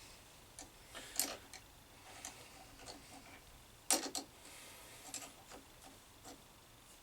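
Metal tools and workpieces being handled at a metal lathe: scattered light clicks and knocks, the sharpest about a second in and a quick cluster of them near four seconds in. The lathe itself is not running.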